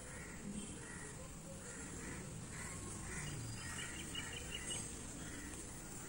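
Faint bird calls repeating about every half second, with a short run of higher chirps partway through, over a steady low background noise.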